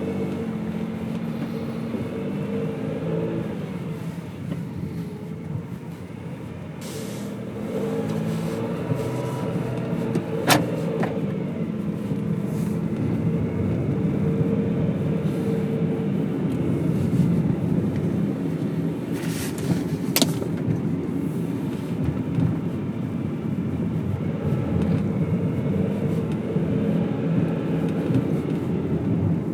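A car driving, with a steady engine hum and road noise and the engine pitch shifting a little as speed changes. Two sharp clicks or knocks stand out, about a third and two thirds of the way through.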